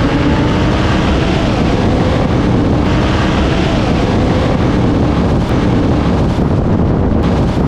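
Heavy wind rushing over the microphone, covering a car engine that runs underneath with faint pitch drops.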